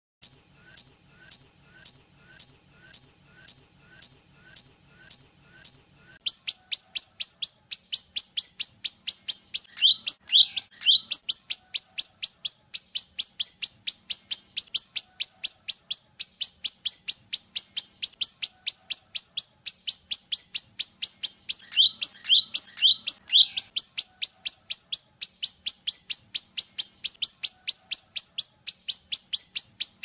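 Rio-rio (grosbeak starling, also called finch-billed myna) calling in a long series of sharp, high chirps. For the first six seconds the notes are slower, downward-slurred chirps, about one and a half a second. After that they become a fast, even run of about four a second, with two short bursts of lower notes about a third of the way in and again about three-quarters through.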